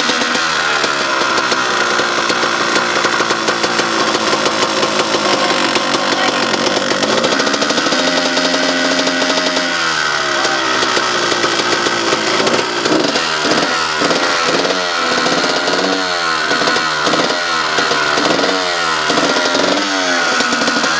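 Dirt bike engine being revved: the pitch rises and is held high for a couple of seconds around the middle, then in the second half it is blipped repeatedly, rising and falling about once a second.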